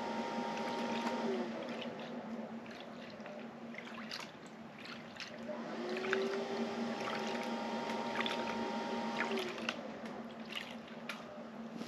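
Water sloshing and swirling in a gold pan as black-sand concentrate is panned down, with grit and gravel scratching and clicking against the pan. A steady low hum runs underneath.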